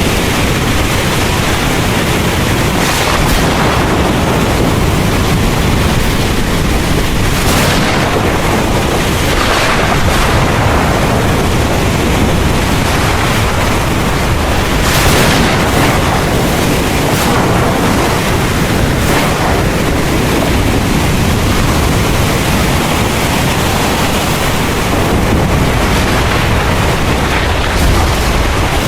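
Heavy rain pouring steadily over a deep, continuous low rumble of thunder. The hiss swells briefly every few seconds.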